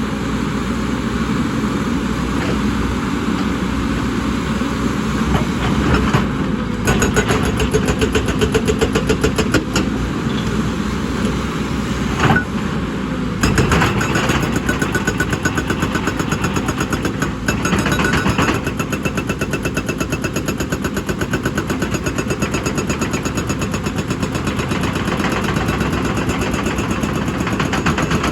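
Excavator's diesel engine running steadily under load, with a fast, even pulsing throughout. It grows louder and choppier for a few seconds about a quarter of the way in and again around the middle.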